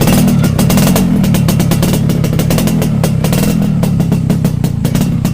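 Motorcycle engine idling steadily through an aftermarket chrome SR-style exhaust, a loud, even, rapid stream of exhaust pulses.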